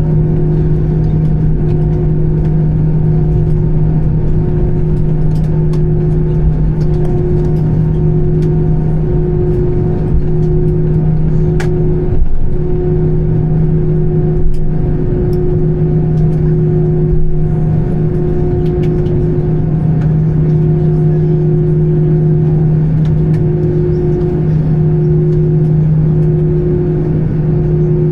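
Airbus A320 cabin noise: the engines' steady hum over a low rumble, with a few faint knocks.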